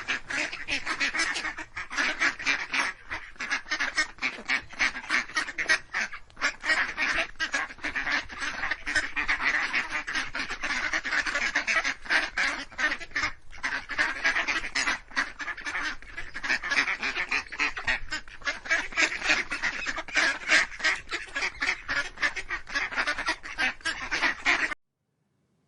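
A flock of domestic waterfowl calling over one another in a dense, continuous chatter of rapid calls, which stops abruptly about a second before the end.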